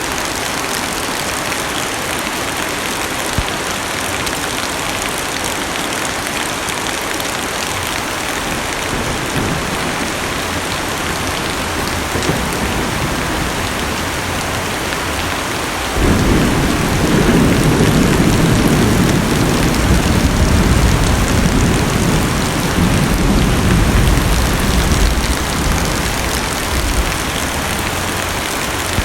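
Heavy rain pattering steadily on a car's roof and windows, heard from inside the cabin. About halfway through, a deep rumble of thunder sets in suddenly and rolls on for about ten seconds before dying back to the rain alone.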